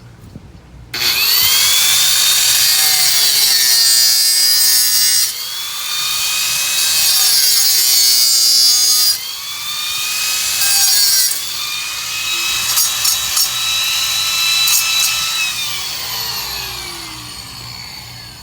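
Electric power saw spinning up and cutting through PVC pipe. The motor pitch drops twice as the blade bites, then winds down over the last few seconds after the cut.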